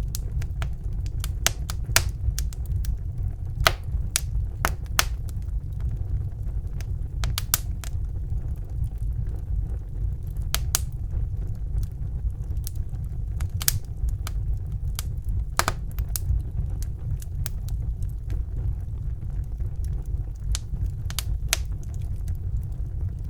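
Wood fire burning in a fireplace: a steady low rumble with sharp, irregular crackles and pops as the logs burn.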